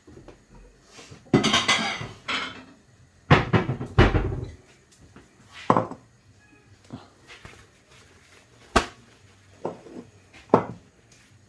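Kitchen crockery clattering: a bowl being fetched and set down on the counter, with a series of separate knocks and clinks and a sharp click near the end.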